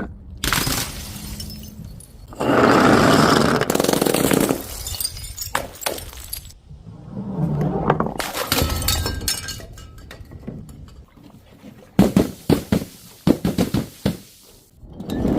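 Glass bottles breaking and shattering in a series of crashes. Two long, crunching crashes come early and in the middle, and a quick run of sharp cracks comes near the end.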